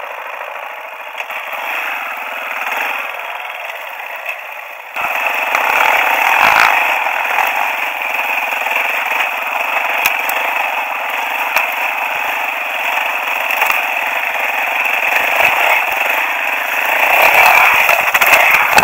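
Motorcycle engine running steadily, getting suddenly louder about five seconds in and then holding.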